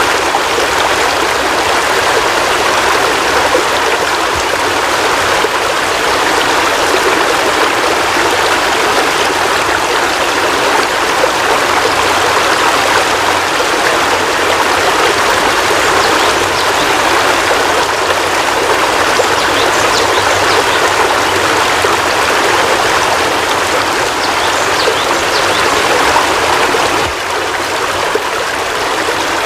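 Heavy rain falling steadily in a dense, even hiss, dipping slightly in level near the end.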